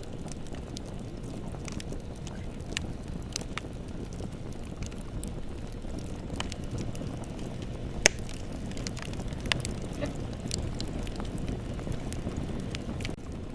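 Bonfire crackling: a steady low rumble of burning wood with scattered sharp pops and snaps, the loudest about eight seconds in.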